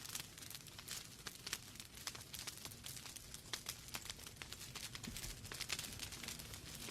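Wood fire burning in a fireplace, with a steady low rumble under frequent irregular sharp crackles and pops from the logs.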